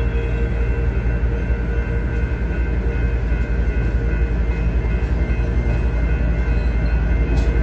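Passenger business cars of a slow-moving train rolling past on yard track, with the diesel locomotive's engine running at the far end of the train: a steady low rumble with faint steady high tones over it. A single short clank near the end.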